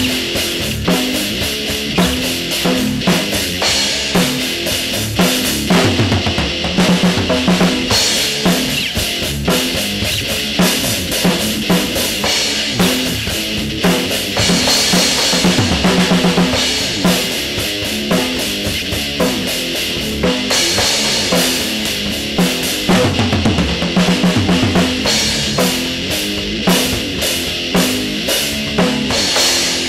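Instrumental section of a rap-rock track: a drum kit playing a busy, driving beat of bass drum and snare over repeating pitched backing notes, with no vocals.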